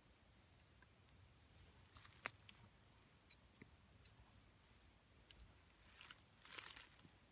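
Near silence with faint, scattered crackles and clicks of small twigs, and a short rustle about six seconds in.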